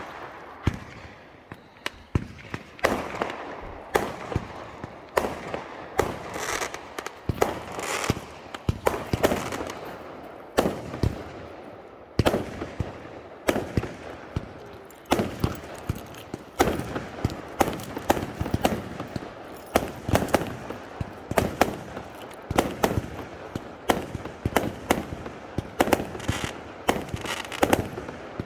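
Fireworks going off: a rapid, irregular string of sharp bangs and pops, several a second, some with a short crackling tail.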